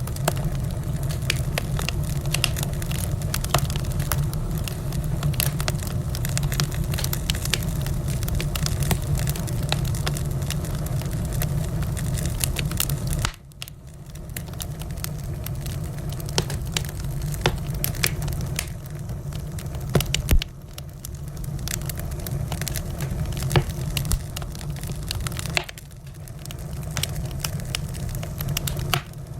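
Wood fire in a fireplace burning with a steady low rumble and many sharp pops and crackles. The sound drops off suddenly twice and then comes back.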